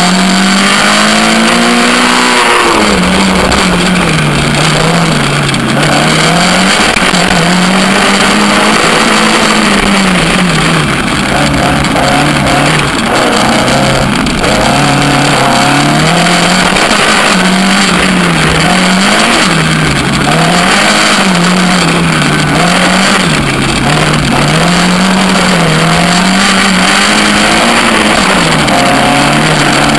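Suzuki Swift GTi twin-cam four-cylinder engine in a Corsa-bodied sprint car driven hard, its revs rising and falling over and over through gear changes and corners. Heavy road and wind rush is heard from low at the front of the car.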